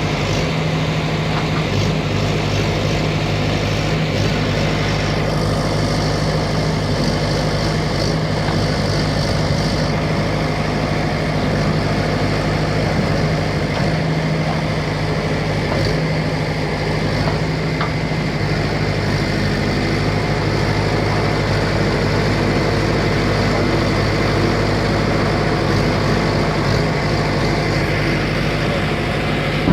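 ACE four-wheel-drive tractor's diesel engine running steadily, powering its loader backhoe attachment. A higher hiss comes in about five seconds in.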